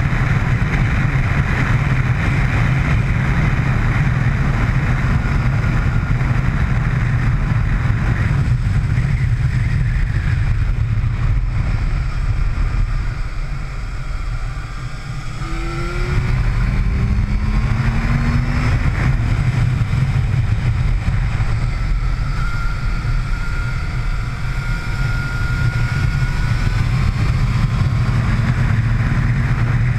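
Motorcycle riding at speed on a track, engine noise mixed with heavy wind rush. About halfway through the sound drops for a moment, then builds again with a faint rising engine whine as the bike accelerates.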